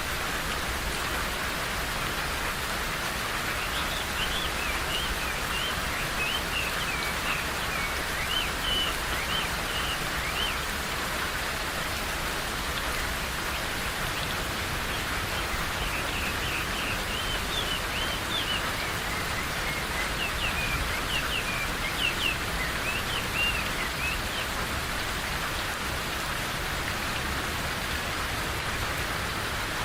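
Steady rain falling in a forest, with a bird singing rapid chirping phrases over it in two bouts, the first a few seconds in and the second past the middle.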